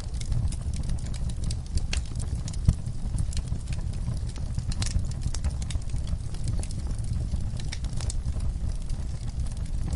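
Wood fire in a fireplace crackling, with irregular sharp pops and snaps over a steady low rumble of the flames; one pop stands out a little under three seconds in.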